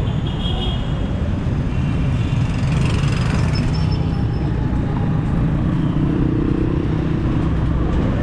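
Motor vehicle running on the road: a steady low engine and road rumble.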